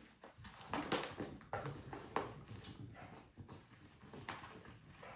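A bulldog searching among cones for a hidden treat, nosing and knocking them: a run of short, irregular noisy bursts and light knocks.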